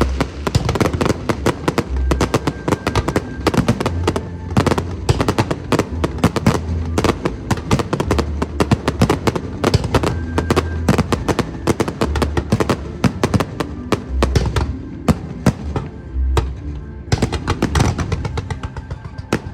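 Fireworks going off in dense, rapid strings of sharp cracks and bangs over loud music with a pulsing bass. The crackling thins out briefly about two-thirds of the way through, then picks up again.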